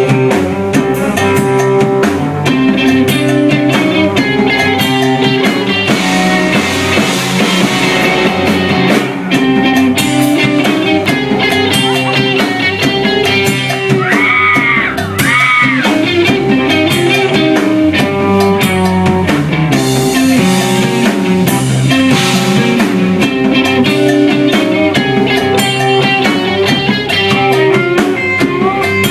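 Live blues-rock band playing: electric guitar over a drum kit with a steady beat. Two swooping bent notes come about halfway through.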